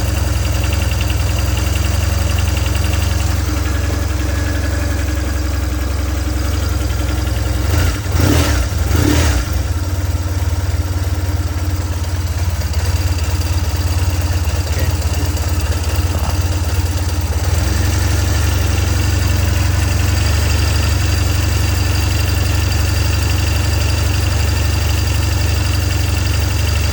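2000 BMW R1150GS boxer-twin engine idling steadily, circulating freshly changed oil. The engine note rises and falls briefly once, about eight seconds in.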